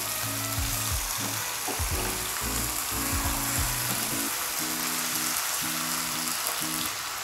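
Chicken pieces in a green hariyali masala marinade sizzling in a frying pan as they are stirred and mixed with a spatula, with background music of steady held notes.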